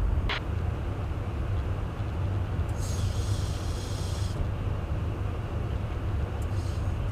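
Steady low drone of a KC-135 tanker in flight, heard inside the aircraft, with a short hiss about three seconds in.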